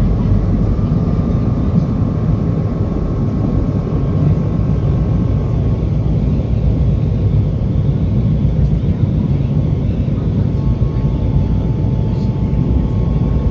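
SEPTA trolley running along the rails with a steady, loud low rumble. A faint whine near the middle of the range fades out partway through and comes back near the end.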